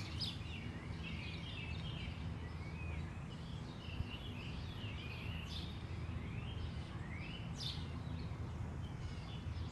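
Several small birds chirping, a run of short rising and falling calls over a steady low background rumble.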